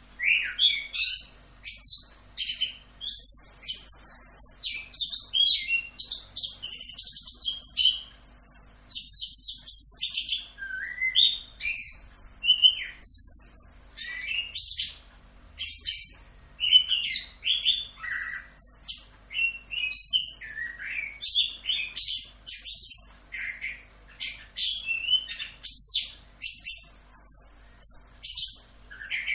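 Chestnut-capped thrush (anis kembang) singing a long, continuous song of fast, varied high-pitched chirps, trills and whistles with hardly a pause; the song starts suddenly at the very beginning.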